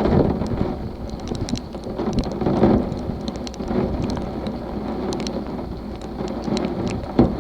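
Rain in a thunderstorm, with many sharp drop ticks against a hard surface over a rushing, swelling background; one sharper knock near the end.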